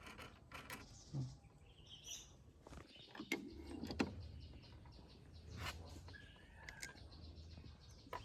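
Faint scattered clicks and knocks of hand work on machine parts, the sharpest about four seconds in, with birds chirping now and then in the background.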